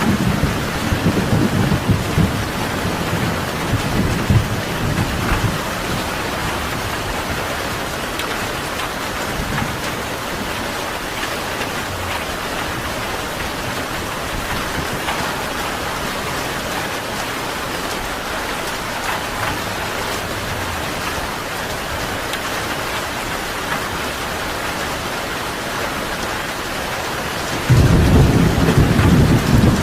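Steady rain with thunder: a low rumble dies away over the first few seconds, and another roll of thunder starts suddenly near the end.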